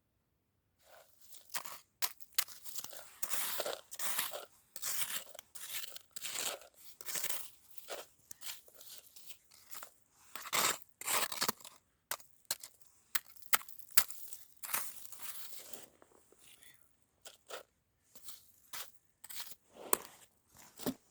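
Snow crunching and scraping in irregular bursts with short pauses, with a few sharp clicks.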